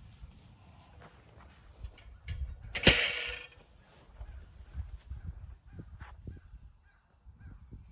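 A single loud, sharp clank about three seconds in, with smaller knocks and clicks, as metal parts are handled while a toothed wheel is taken off a reel hay rake. Crickets chirp steadily in the background.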